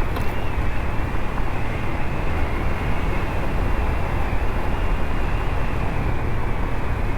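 Honda Trail CT125 motorcycle under way, its small air-cooled single-cylinder engine running steadily under wind noise on the rider's microphone.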